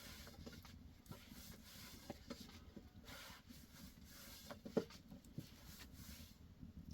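Faint rubbing and handling sounds with a few soft, scattered knocks, the loudest a little past the middle.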